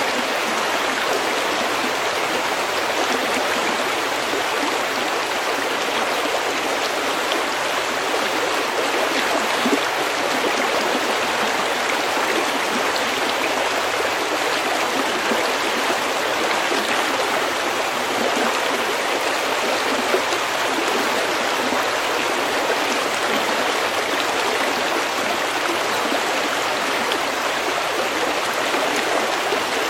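A small stream flowing over pebbles, babbling steadily.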